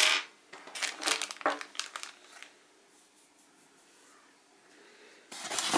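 Packaging crinkling as parts are handled: a few short rustles at first, a quiet stretch, then a louder rustle near the end.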